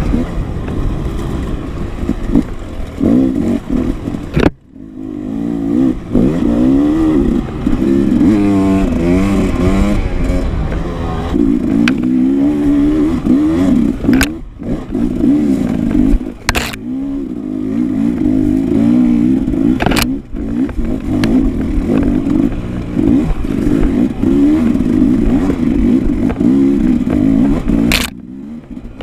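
Dirt bike engine revving up and down as it is ridden off-road, its pitch rising and falling constantly. The engine note drops out briefly about four and a half seconds in, and a few sharp knocks and some clatter come through over the engine.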